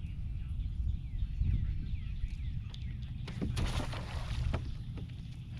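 Outdoor ambience on a boat on the water: a steady low rumble, scattered short high bird chirps that drop in pitch, and a brief rushing hiss lasting about a second, starting about three and a half seconds in.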